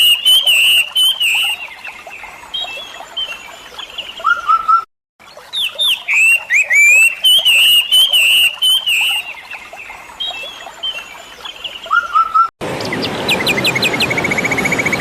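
Songbirds singing in short, chirping, up-and-down phrases. The song breaks off for a moment about five seconds in and the same passage plays again. Near the end it cuts abruptly to a different recording: a steady hiss with a fast trill over it.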